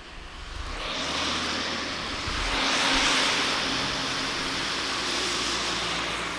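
A motor vehicle passing close by, its tyres giving a loud hiss over a low rumble that builds about a second in, peaks around three seconds, then eases off near the end.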